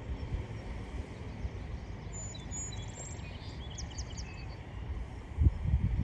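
Outdoor ambience: a small bird chirps several short, high phrases in the middle, over a steady low rumble that swells in bumps near the end.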